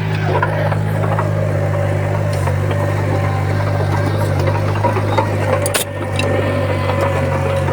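Bulldozer diesel engine running steadily, a constant low drone with a steady higher whine over it. A brief click and momentary drop in level come about three-quarters of the way through.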